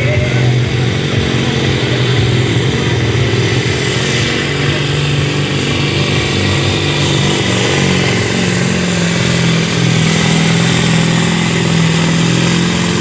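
Supersport pulling truck's modified Scania diesel engine running loud and steady at full load while pulling the sled, its pitch edging up a little past the middle.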